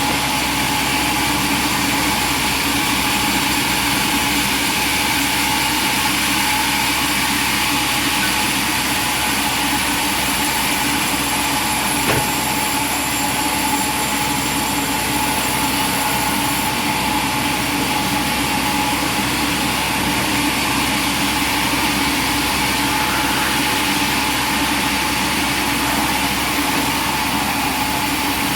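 A machine running steadily: an even mechanical drone with a constant whine, and a single sharp click about twelve seconds in.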